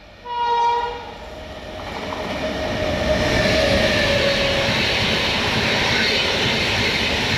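Indian Railways locomotive horn sounding one short blast, then a fast passenger train rushing past the platform, the noise of the coaches building over a couple of seconds and staying loud.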